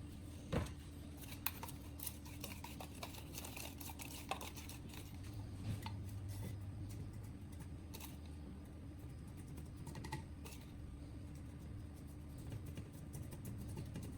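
Scattered light clicks and taps, the sharpest about half a second in, over a low steady hum.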